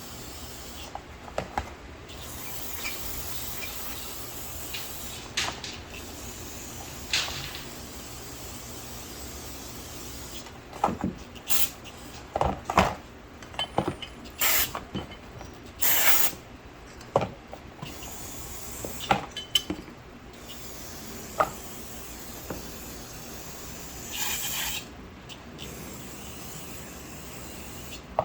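Carburetor parts being handled and cleaned: a run of sharp clicks and knocks as small metal parts are moved about, over a steady low hum, with a short spray hiss near the end.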